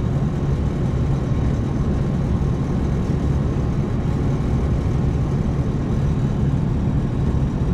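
Air-conditioning unit's fan running steadily with a low, even rumble, just switched on by jumping the fan call at the control board.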